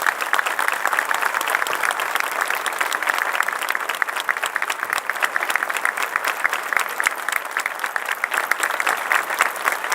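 Audience applauding after the music ends: steady, dense clapping of a concert hall crowd.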